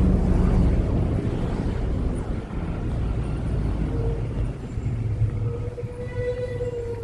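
Evening street traffic: a vehicle's low rumble is loudest at first and eases after about a second. About four seconds in, a steady whining tone from a vehicle comes in and holds.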